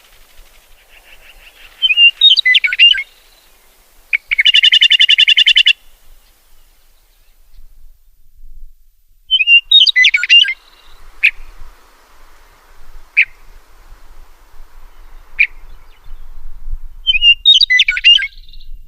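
Songbirds singing: a short, jumbled warbling phrase repeated three times about eight seconds apart, a rapid even trill about four seconds in, and single sharp chip notes in between.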